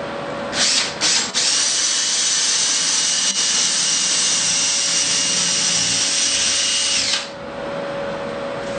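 Power drill pre-drilling a 1/4-inch hole through an Onyx shower wall panel. It gives a couple of quick blips about half a second in, then runs steadily with a high whine for about six seconds and stops near the end.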